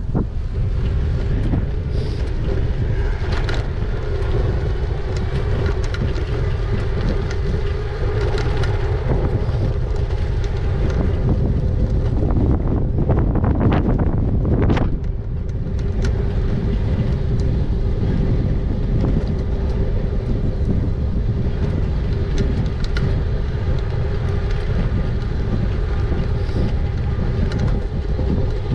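Wind rumbling on the microphone of a moving e-bike, with a steady hum running through it.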